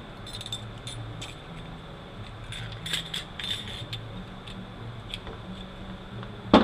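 Small steel transmission parts clinking and tapping against each other as a bearing race is handled during a U760E transaxle teardown, in two short clusters of light clinks, with a sharp metal knock right at the end.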